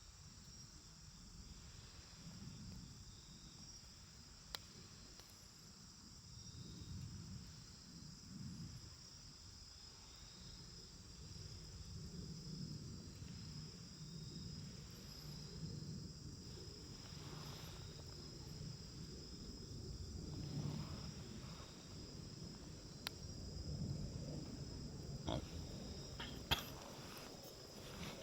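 Wood campfire burning with a soft, wavering low flame rustle and a few sharp crackling pops, one early and three close together near the end. A steady high cricket trill runs beneath it.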